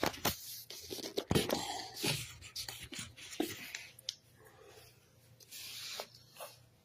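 Close handling noises: hands rubbing and rustling against objects, with scattered clicks and taps, busiest in the first few seconds and thinning out after.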